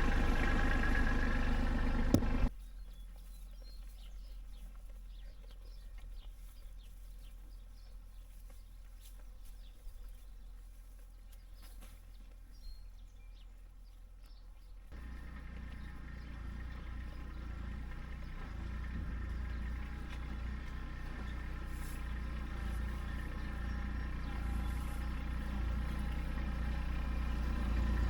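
A vehicle engine running steadily, cutting off suddenly about two and a half seconds in. A quiet stretch with faint ticking follows. About halfway through, an engine comes back and grows steadily louder.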